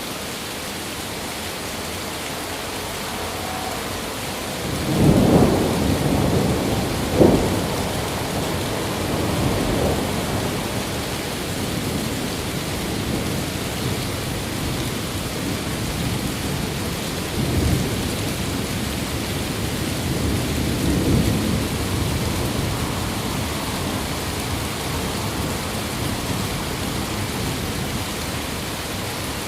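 Steady rain with thunder. A loud rolling rumble comes about five seconds in with a sharp crack near seven seconds, then two fainter rumbles in the second half.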